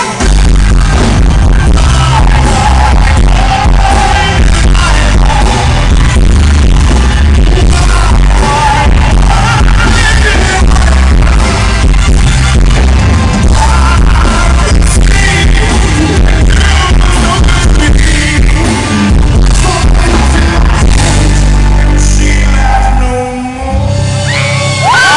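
Live rock band playing loud, with heavy bass and steady drum hits. Near the end the music breaks off briefly, and a rising whine glides up and holds.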